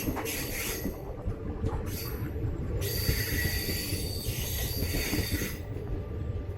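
Passenger train coaches rumbling on the rails, with a high, thin wheel-and-brake squeal from about three seconds in until near six seconds, as the train draws into a station stop.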